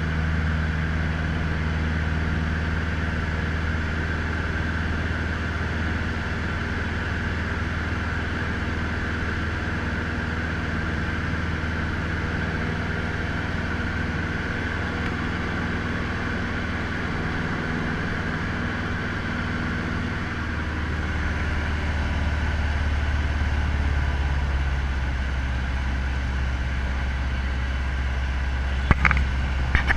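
Cessna 150L's four-cylinder Continental O-200 piston engine and propeller running steadily at low power, its note shifting about twenty seconds in. A few sharp clicks come near the end.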